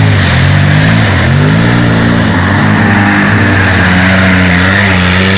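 Quad bike (ATV) engines revving loudly, their pitch rising and falling again and again as the throttle is worked.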